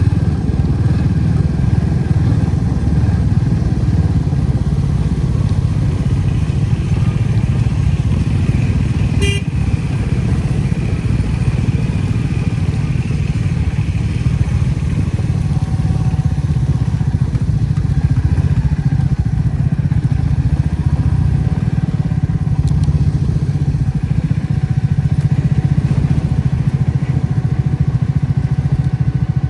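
Motorcycle engine running steadily while riding, with a single sharp click about nine seconds in.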